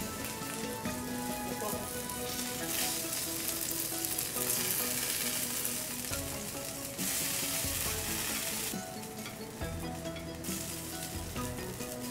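Eggplant slices frying in hot oil in a pan, a steady sizzle that grows louder through the middle and eases off a few seconds before the end. Faint background music plays underneath.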